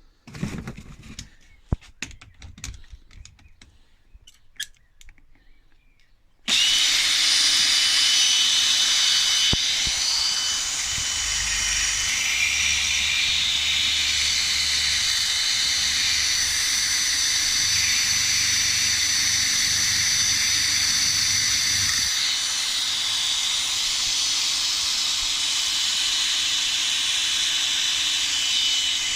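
A few light clicks and knocks of handling, then about six and a half seconds in a power tool switches on suddenly and runs steadily with a high whine, cleaning the grime off dirty steel washers.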